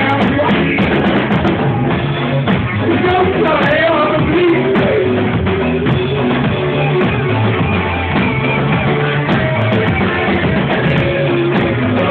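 Rock band playing live: drum kit, guitar and sung vocals, loud and continuous.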